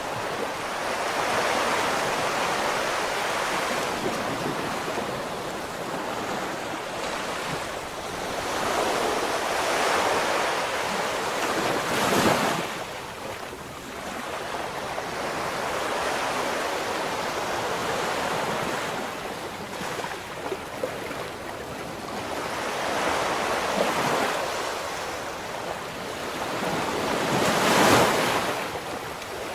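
Ocean waves breaking on a shore: a continuous wash of surf that swells and eases, with two louder crashes, one about twelve seconds in and one near the end.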